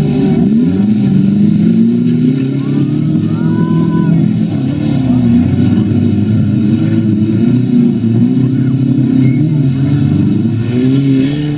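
Engines of several old demolition-derby cars revving up and down as they accelerate and push through mud, their pitches rising and falling over one another.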